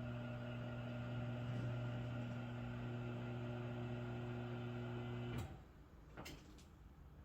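A steady low hum holding one pitch, which stops abruptly about five seconds in; two faint clicks follow.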